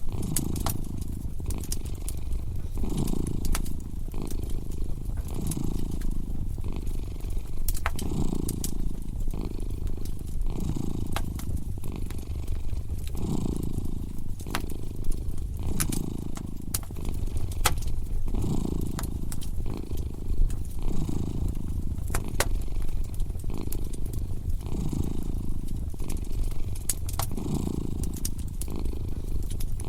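A cat purring close up, swelling and easing with each breath about every two and a half seconds, over the scattered sharp crackles and pops of a wood fire.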